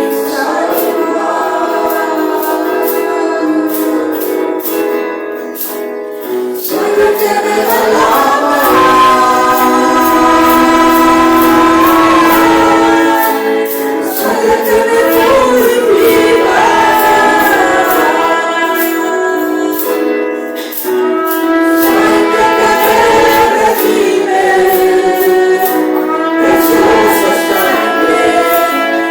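Congregational worship music: voices singing a praise song in Spanish together with the band, over a steady beat. It grows louder and fuller about seven seconds in.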